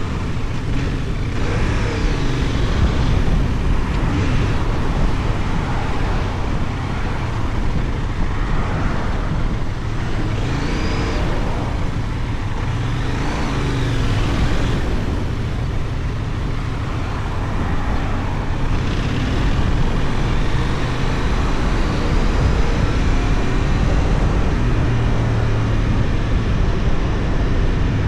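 Benelli Tornado 550's 554 cc parallel-twin engine running while riding, under a steady rush of wind on the action camera's microphone. The engine pitch rises and falls a couple of times near the middle.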